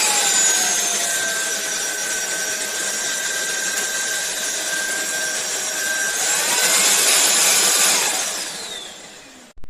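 SunSare X7A cordless stick vacuum's motor running with a high whine while being stepped through its power levels. The pitch drops to a lower setting about a second in, climbs back up to full power around six seconds, then winds down and stops near the end.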